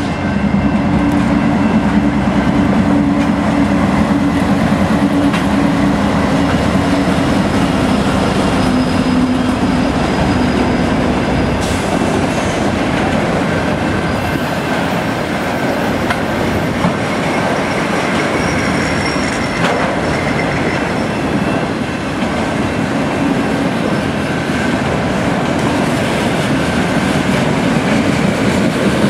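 A freight train passing close by. Its CN diesel-electric locomotives give a strong low engine drone for roughly the first ten seconds, and then the autorack and hopper cars roll by with a steady rumble of wheels on rail.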